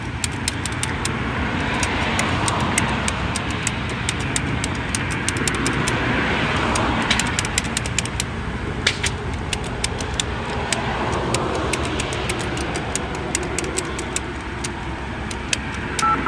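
A motor vehicle's engine idling, with traffic noise swelling and fading several times and a scatter of faint sharp ticks. Two-tone keypad beeps start right at the end.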